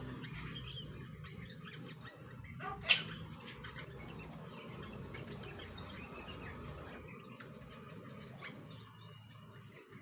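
Birds chirping in a tree: scattered short, high chirps, with a single sharp click about three seconds in.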